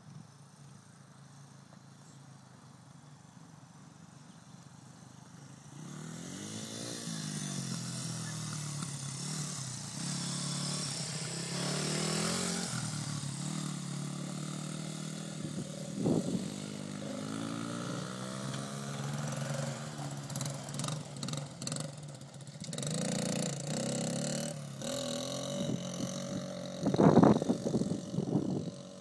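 Engines of a Honda 80 dirt bike and a quad running and revving as they race. They are faint at first and grow louder about six seconds in, rising and falling in pitch as they speed up and slow down, and are loudest near the end as they pass close by.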